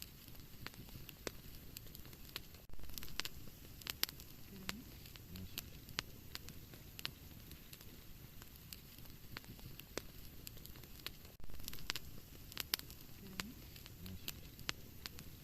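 Wood fire burning in a fireplace: a steady low rustle of flames with scattered sharp crackles and pops. The rustle grows louder about three seconds in and again about eleven seconds in.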